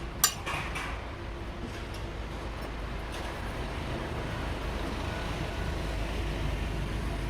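Steady low rumble of road traffic or an engine running, slowly building toward the end, with one sharp clack about a quarter second in and a few lighter clicks just after.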